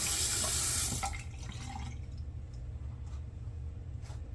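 Bathroom sink tap running, then turned off about a second in, leaving only faint small water sounds.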